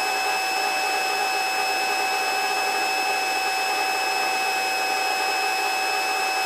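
Helicopter in flight just after takeoff, heard from inside the cabin: a steady rushing noise with several constant high-pitched whines over it and little low rumble.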